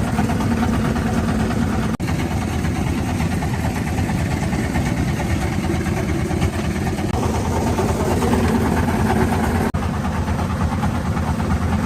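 Small fishing boat's engine running steadily at a low idle while the nets are hauled.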